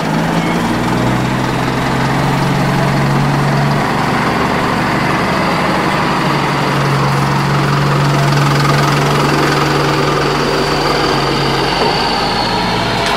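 Heavy vehicle's diesel engine running steadily at an even speed, its note shifting slightly a few times.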